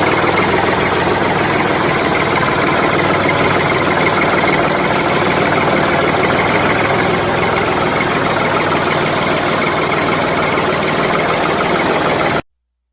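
A small motor running steadily, then cutting off suddenly near the end.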